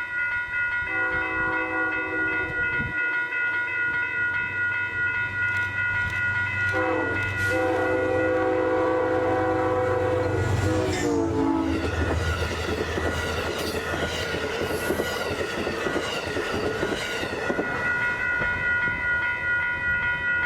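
Amtrak P32AC-DM diesel locomotive sounding its horn: a short chord, then a longer one, as it approaches. The passenger train then rushes past with wheels clattering over the rails, over a steady high whine.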